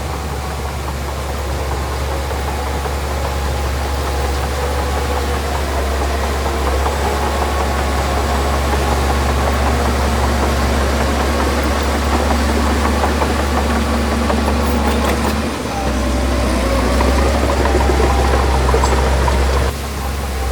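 Diesel engine of heavy earthmoving machinery running steadily, with a deep hum and a wavering engine tone. The sound dips briefly about three quarters of the way through and drops suddenly near the end.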